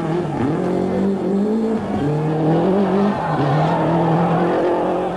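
Rally car engine running under hard throttle, its pitch climbing and dropping several times as the car accelerates, shifts and lifts.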